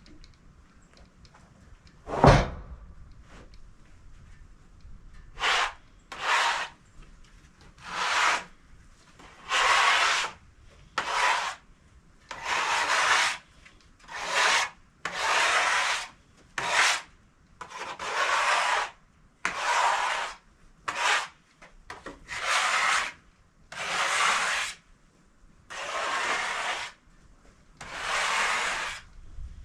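A single knock, then about sixteen rasping, rubbing strokes in a steady rhythm, one every one to two seconds.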